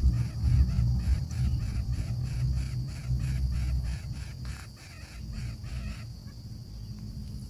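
Baby birds begging, a rapid run of repeated calls about four a second that stops about six seconds in, over a low rumble.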